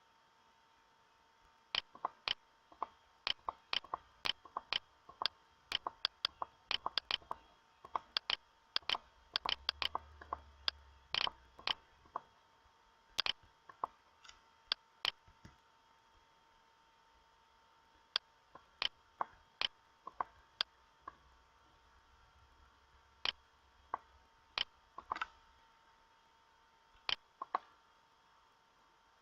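Dozens of sharp single clicks at an uneven pace, some in quick runs of several a second. They thin out after a pause about halfway through, over a faint steady whine.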